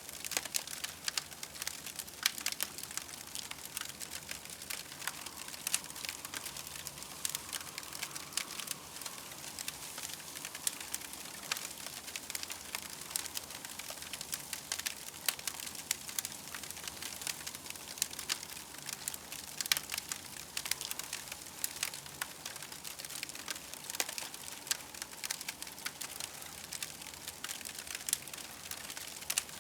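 Campfire crackling steadily, with a dense run of small sharp pops.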